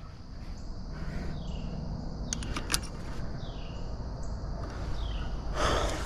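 Outdoor creek-side ambience: a steady low rumble and hiss, with a short falling bird call three times and a few sharp clicks near the middle.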